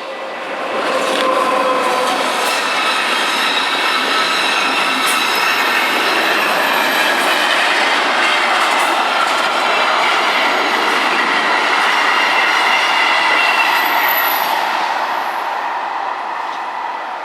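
Car-carrying sleeper train passing close over the level crossing, its wheels running on the rails with high squealing. It grows loud about a second in and fades near the end.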